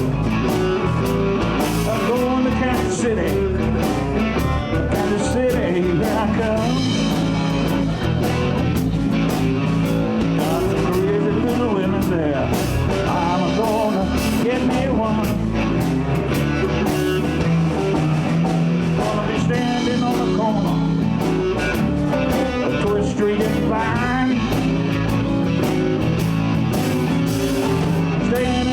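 Live blues band playing an instrumental passage: a guitar lead with bending notes over bass, rhythm guitar and drums.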